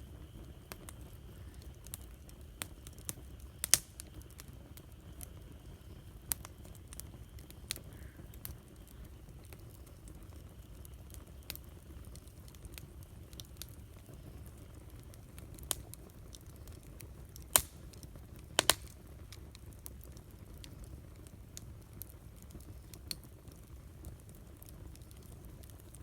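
Wood campfire crackling: scattered sharp pops and snaps, the two loudest close together about two-thirds of the way in, over a low steady rumble.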